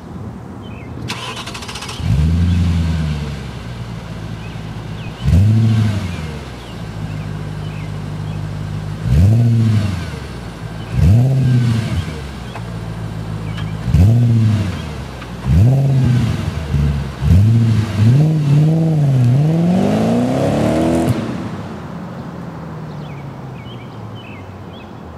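Audi B6 S4's 4.2-litre V8 through a non-resonated Milltek cat-back exhaust. It starts up about two seconds in, idles, and is revved in a series of short blips, with several quick ones close together near the end. It then shuts off.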